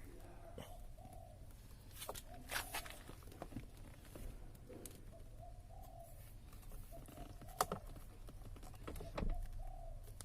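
Short, low bird calls repeating in the background, over a steady low hum, with scattered sharp clicks and taps; the loudest clicks come in the second half.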